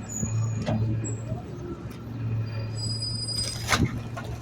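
Garbage truck's engine running with a steady low hum, with brief high thin squeals around three seconds in and a short, sharp burst of noise near the end, the loudest moment.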